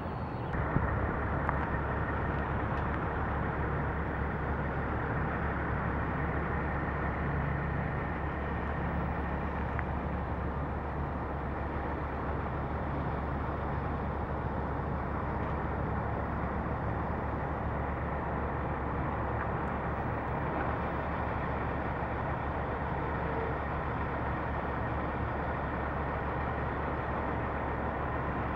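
Steady low hum of a running truck engine under a constant background noise.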